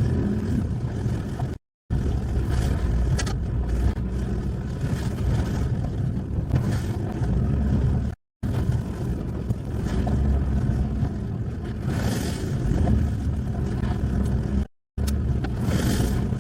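A truck driving along a rough track: a steady low rumble of engine and tyres, broken by three brief silent gaps where the footage is cut.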